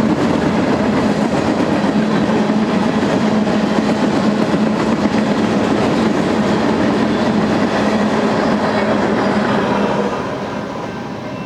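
BNSF freight train cars rolling past on the track, a steady loud rumble of wheels on rail that drops off in level about ten seconds in.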